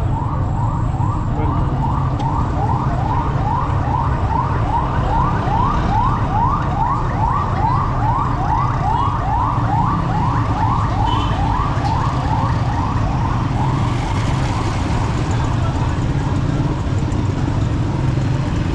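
An electronic siren-type yelp: short rising sweeps repeating about three times a second, which fade out about two-thirds of the way through. Steady street-traffic rumble lies underneath.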